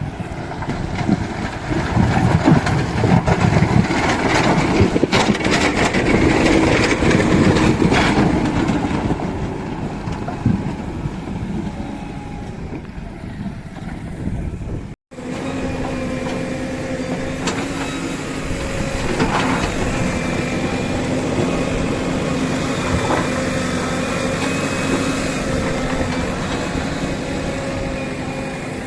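Diesel engines of heavy earthmoving machinery running under load, with scattered metallic knocks in the first half. After a brief cut about halfway through, an engine runs at a steady pitch.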